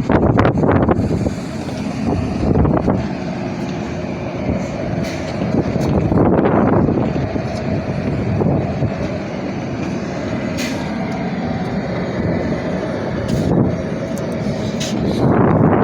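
Packaged air-conditioning unit running: a steady fan and motor drone with a few faint held tones. Louder swells about six seconds in and near the end.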